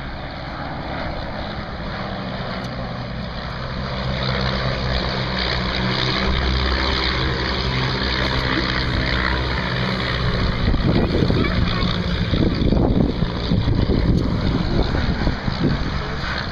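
Propeller-driven aircraft engine droning steadily, growing louder about four seconds in, with rough, uneven rumbling in the second half.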